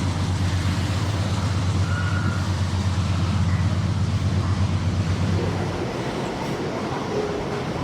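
Freight train passing, with a deep pulsing diesel drone that drops away about five and a half seconds in, leaving the even rolling noise of the wagons on the rails.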